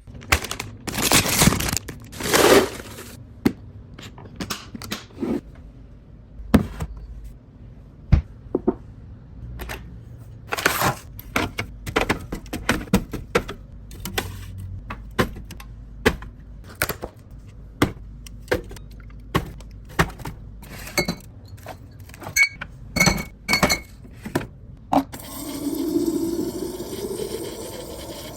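Kitchen containers, jars and packages being handled and set down during a fridge restock: a long, irregular run of clicks, taps and clinks. There are two longer, louder scrapes about one to three seconds in, and near the end a steadier rushing sound that rises in pitch.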